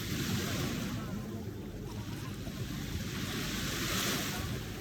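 Ocean waves washing in, the hiss of the surf swelling twice, just after the start and again near the end, over a steady low rumble.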